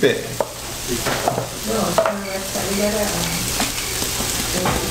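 Mushrooms, potatoes and onions sizzling steadily in a frying pan, with a few light clicks.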